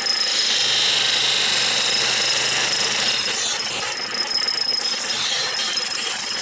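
Wood lathe running at speed while a turning tool cuts into the spinning wood blank, a steady scraping hiss over the lathe's hum. The cutting is strongest for the first three seconds, then goes on rougher and a little weaker.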